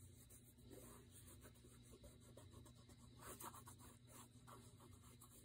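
Faint paper handling: light rustling and scraping of paper and card being moved and placed on a work surface, a little more active about three seconds in.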